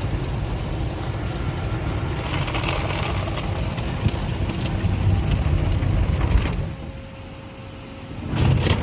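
Automatic car wash machinery running: a steady rumble with hissing spray. It drops quieter for a couple of seconds about six and a half seconds in, then surges back loudly near the end.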